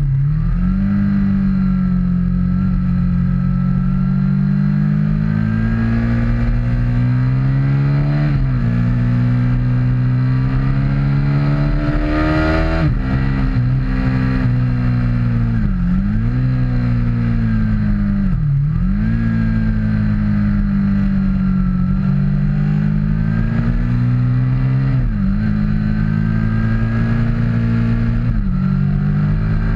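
Aprilia RSV Mille R's V-twin engine at track speed, the revs climbing slowly in each gear and dropping sharply at each gear change or throttle lift, about seven times. Wind rushes past, loudest around the middle.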